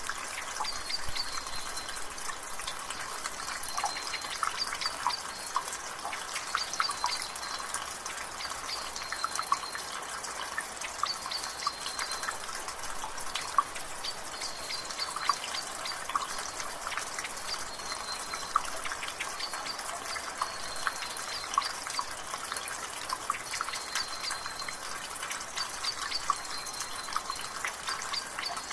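Water dripping and trickling from a rain gutter: a dense, irregular patter of drips over a steady hiss of rain. Throughout, a bird repeats a short high whistled call every second or two.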